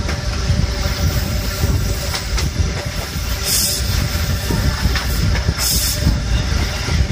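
InterCity 125 high-speed train running at speed, with a steady rumble of wheels on rails and a low buffeting of wind on the microphone held out of the coach window. Two brief hissing surges about three and a half and five and a half seconds in.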